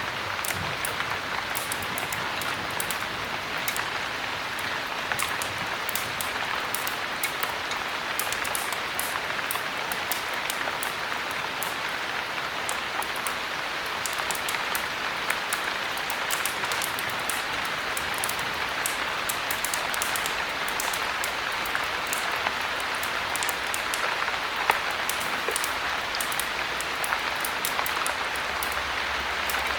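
Steady heavy rain: a dense, even hiss sprinkled with many small sharp ticks throughout.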